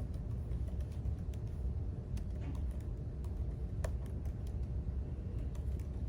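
Computer keyboard keystrokes: sparse, irregular clicks of typing over a steady low rumble.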